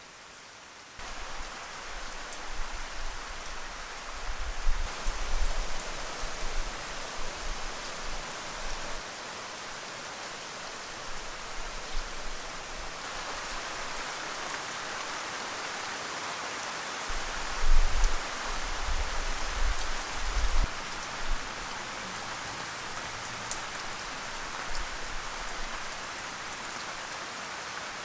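Steady rain falling, with spells of low rumbling about a second in and again around the middle.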